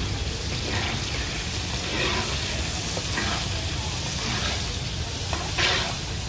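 Food sizzling and frying in hot oil in a large cooking pot as it is stirred, with one short louder burst about five and a half seconds in.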